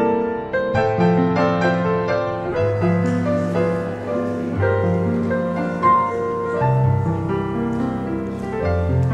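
Background piano music: a slow, gentle piece with sustained bass notes changing about once a second under a simple melody.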